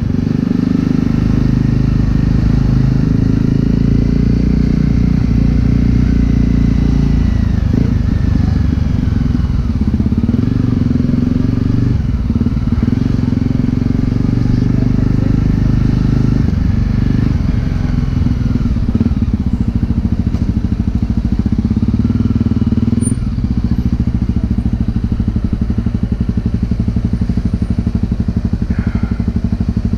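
Honda CRF250L's single-cylinder engine running through a Yoshimura exhaust while riding, loud and steady, with the engine note dipping and picking up again several times as the throttle is changed.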